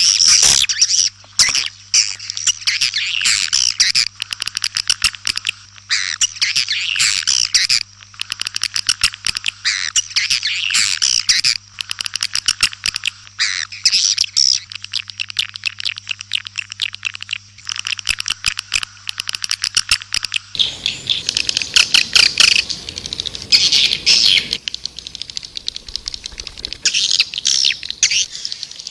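Swiftlets twittering in a dense, rapid stream of high chirps: a swiftlet lure call of the kind played to draw birds to a nesting house. About twenty seconds in, a faint low hum underneath drops out and the recording changes, with the chirping coming in louder patches.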